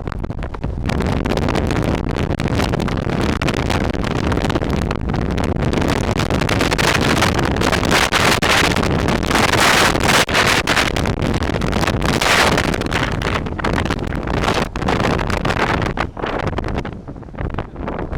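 Wind buffeting the microphone in a loud, steady rush, gusting louder about halfway through and again a few seconds later.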